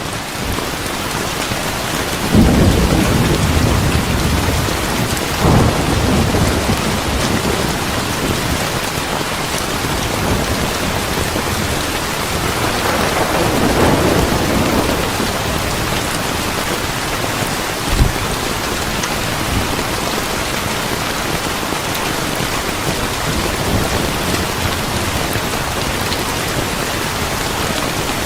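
Steady heavy rain with rolling thunder: deep rumbles break in suddenly about two and a half and five and a half seconds in, another swell of thunder builds midway, and a short sharp clap comes near the two-thirds mark.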